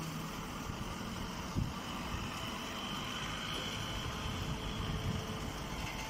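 Rice straw baler machine running: a steady mechanical rumble with a faint high whine, and one brief knock about a second and a half in.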